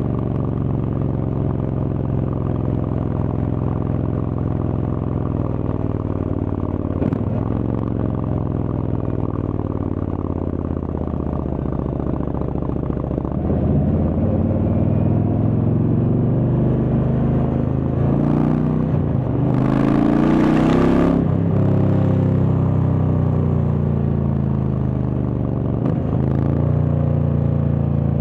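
Indian Chieftain's Thunderstroke V-twin through a Freedom Performance exhaust, riding along. The engine pitch drops and climbs again at gear changes, about a quarter of the way in and again past the middle, and it gets louder under acceleration from about halfway. A short rush of noise comes about two-thirds of the way in.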